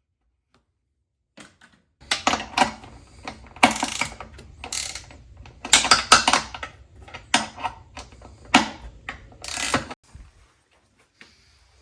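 Hand tool work on shelf bolts: irregular mechanical clicking and ratcheting strokes over a low hum, starting about two seconds in and stopping near the end.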